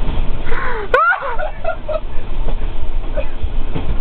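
Steady low rumble of a moving train, with a person's short cry sweeping up and down about a second in and a few brief vocal sounds after it.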